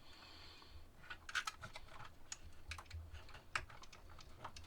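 Faint, irregular small plastic clicks and taps from handling an ESC's receiver plug and its wires, the kind made when pulling the red wire's pin out of the plug.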